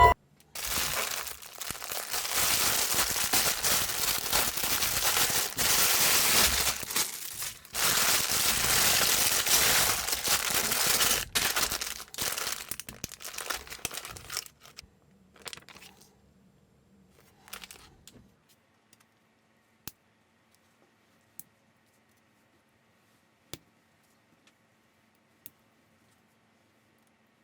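Plastic bag of building bricks crinkling as it is handled and torn open for about fourteen seconds. A few faint rustles follow, then four single sharp clicks of bricks, spaced about two seconds apart.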